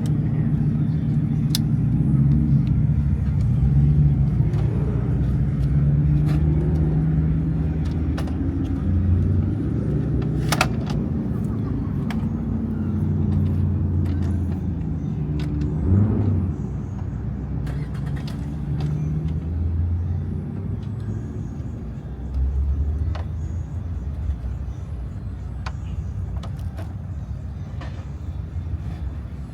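Car engines running, a continuous low rumble whose pitch shifts up and down now and then, with a few short clicks.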